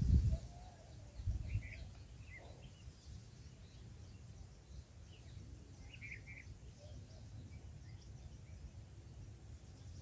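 Faint short bird chirps over a steady low outdoor rumble: a few about two seconds in and a quick cluster about six seconds in. Two louder low thumps come at the start and about a second and a half in.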